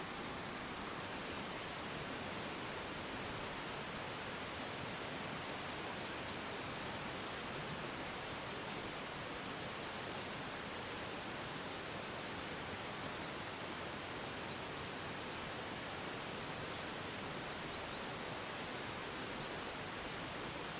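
Steady, even outdoor hiss of forest background noise, with no distinct events.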